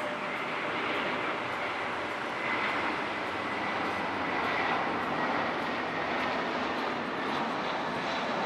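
Airbus A319 jet airliner passing on landing approach: a steady jet engine roar with a thin whine that slides slightly lower, growing gradually louder.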